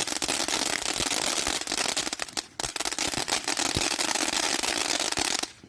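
Fireworks crackling: a dense, rapid run of small pops that dips briefly about halfway through and cuts off suddenly just before the end.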